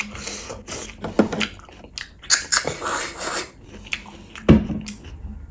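Close-up mouth sounds of a person eating saucy beef curry and rice by hand: wet chewing, lip smacks and squelching clicks, with one heavier low thud about four and a half seconds in.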